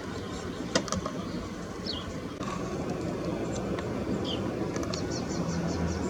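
A steady low rumble of distant traffic, with small birds chirping over it. There are short falling chirps about two and four seconds in, and a quick run of six or seven high chirps near the end.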